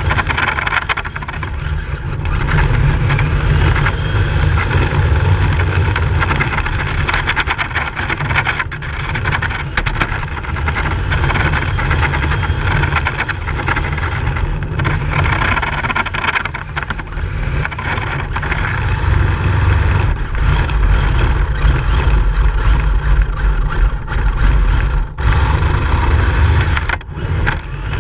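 Radio-controlled drift car driving, its motor and tyres making a steady rough noise with many short scrapes, over a heavy low rumble.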